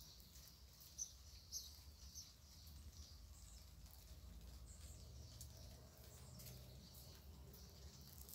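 Near silence with a faint low rumble, and faint bird chirps: three short ones spaced about half a second apart, a second or two in.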